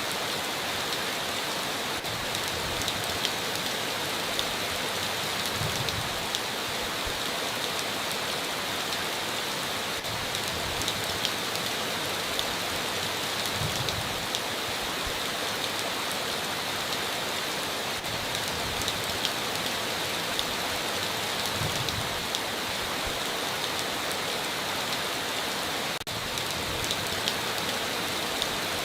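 Heavy rain falling steadily on a tin roof, a dense hiss with individual drops ticking throughout and a soft low thud about every eight seconds.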